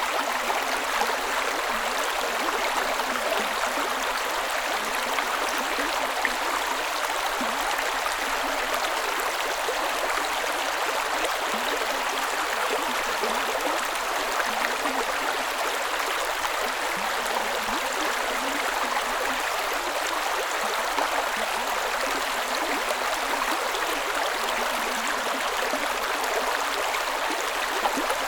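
A small creek running steadily over stones: a continuous light rush of water with small gurgles and splashes and no deep rumble.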